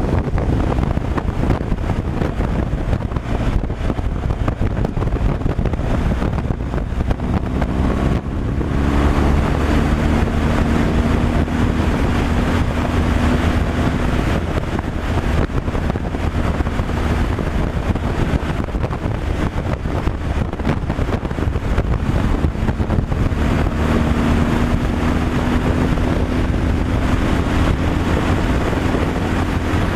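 Heavy truck driving at road speed: steady engine drone with road and wind noise. The engine note changes about eight seconds in and again a little past the twenty-second mark.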